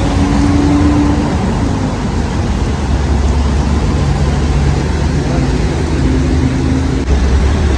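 Steady road traffic: engines and tyres of passing vehicles, with a low engine rumble and a few held engine tones.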